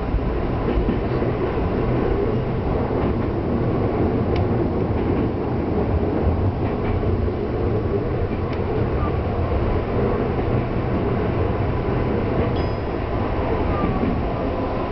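Tokyu Toyoko Line electric train running at speed, heard from inside the train: a steady rumble of wheels on rail with a thin steady tone and a few faint clicks.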